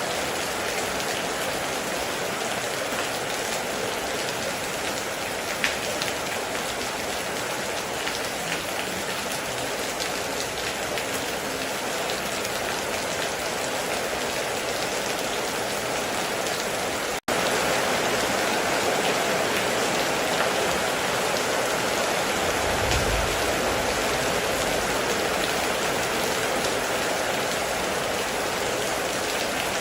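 Steady heavy rain with a few sharper drop clicks. The sound cuts out for an instant a little past halfway and comes back slightly louder, and a brief low rumble follows a few seconds later.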